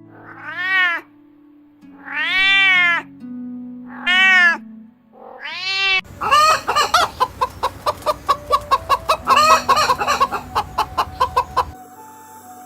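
Animal calls over background music: four separate wailing calls that rise and fall in pitch in the first half, then a fast run of short calls, about three or four a second, that stops near the end.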